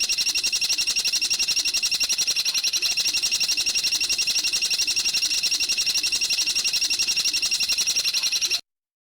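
A songbird's rapid, unbroken trill, about fifteen even, high notes a second, held steady for several seconds and cutting off abruptly near the end: a looped bird-song training recording.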